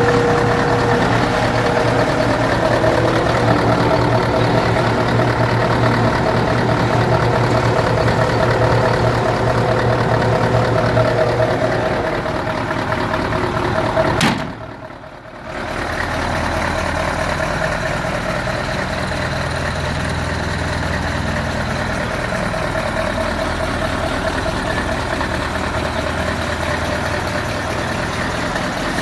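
Mercedes-Benz SK 1853 tractor unit's diesel engine idling steadily. About halfway there is a click and the sound drops away for about a second, then the idle resumes with a slightly different tone.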